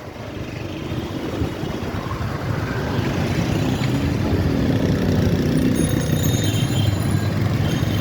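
A small engine running steadily, getting gradually louder, with street traffic around it.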